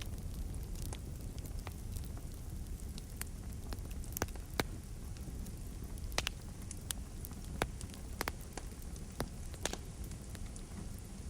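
Wood campfire burning, with sharp, irregular crackles and pops of the firewood over a steady low rumble; a few pops stand out louder, about four and a half and six seconds in.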